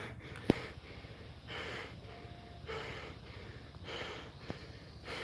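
A person breathing close to the microphone, soft breaths about once a second, with a sharp click about half a second in.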